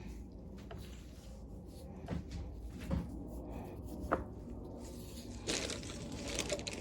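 Small metal and plastic carburetor parts being handled on a work surface: a few light knocks about a second apart, then a rustling scrape near the end.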